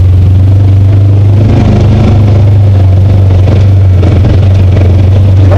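Side-by-side UTV engine running steadily under way on the trail, a loud low drone heard from the passenger seat.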